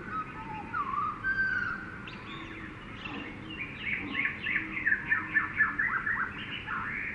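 Several birds calling: slow whistled glides, then a rapid run of chirping notes from about three seconds in, over a soft steady natural background.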